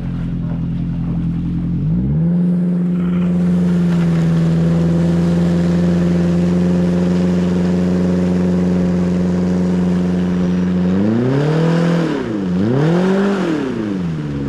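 Boat motor running. It revs up about two seconds in and holds steady, then is throttled down and up twice near the end before settling back to a lower speed.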